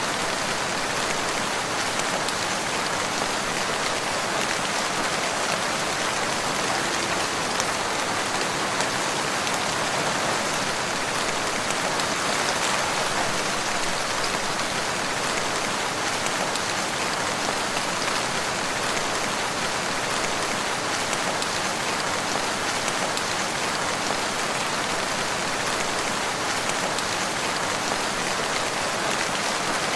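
Steady rain falling on a surface, a constant even patter with no thunder.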